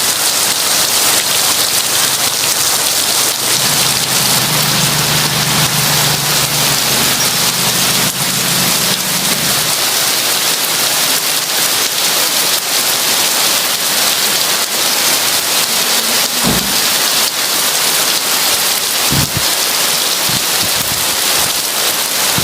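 Heavy rain pouring steadily in a dense, loud hiss. Thunder rumbles low from a few seconds in to about the middle, and a few short low thuds come later.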